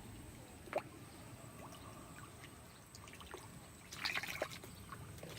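Pond water trickling and dripping, with a sharp tick just under a second in and a brief splash about four seconds in as fish snatch food at the surface.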